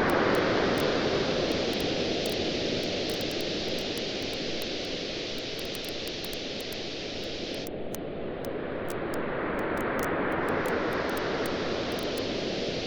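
Ocean waves washing on a shore, ebbing and then surging in again about ten seconds in, with a wood fire crackling in small sharp pops throughout.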